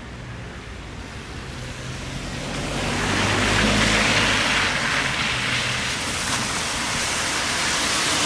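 EF210 electric locomotive hauling a freight train as it approaches. The rushing rumble of its wheels on the rails grows louder about three seconds in and then holds, with a low steady hum underneath.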